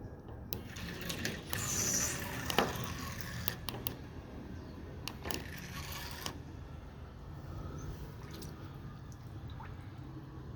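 Water swirling and dripping, with scattered sharp clicks and knocks; it is louder and splashier about one to two and a half seconds in.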